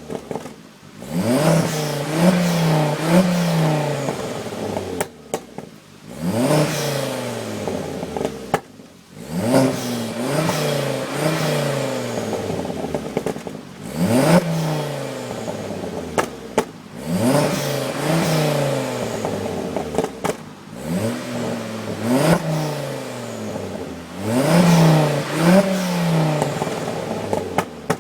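Ford Focus ST's turbocharged 2.5-litre five-cylinder engine, breathing through a straight-through Milltek exhaust with a decat, revved about seven times. Each rev rises quickly and then falls back to idle, and the aftermarket dump valve vents in the background.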